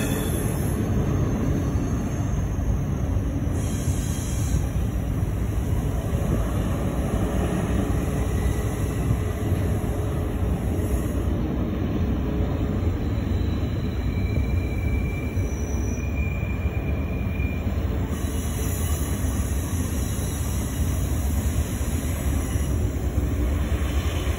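Double-stack intermodal freight train rolling by with a steady low rumble of wheels on rail. A faint high wheel squeal comes in for a few seconds past the middle.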